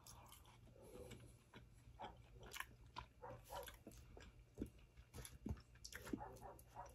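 Faint chewing of a forkful of braised beef and vegetables, with small irregular wet mouth clicks.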